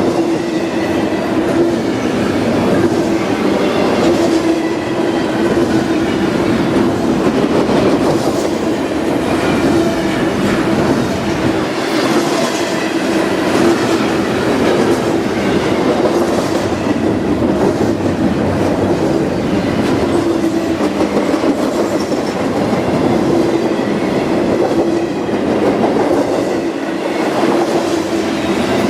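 Freight train cars rolling past, wheels clacking over the rail joints in a loud, continuous rumble with a steady hum running through it.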